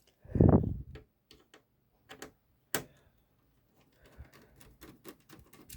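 Small metallic clicks and taps of a screwdriver and screws being handled while Torx T10 screws are taken out of an original Xbox motherboard, with a louder dull thump about half a second in.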